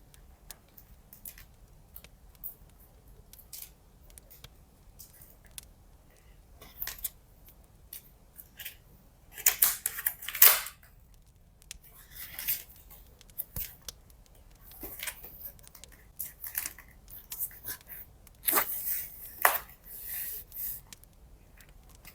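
Paper-crafting handling sounds: paper and washi tape being rustled, peeled and snipped, with scattered small clicks and two louder rustling bursts, one about halfway through and one near the end.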